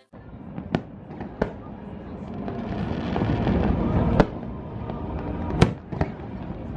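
Fireworks going off: about five sharp bangs over a continuous crackling rumble of bursts, which swells towards the middle.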